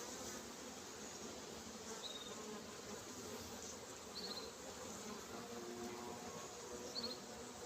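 Honeybees buzzing around an opened hive during a brood-frame inspection, a faint, steady hum with a slightly wavering pitch. A few short high chirps come through at intervals.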